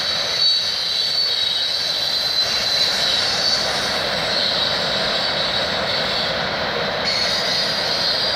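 CN freight train rolling over a railway overpass: a steady rumble of wheels on rail with a high, continuous ringing whine over it.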